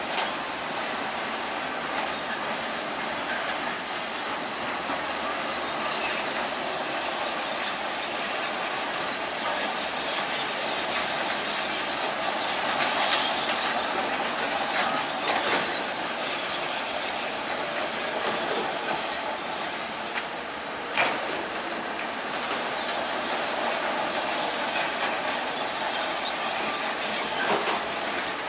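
Bulldozer's steel crawler tracks squealing and clanking as it moves, a steady high metallic squeal with a couple of sharp knocks, one about two-thirds of the way in and one near the end.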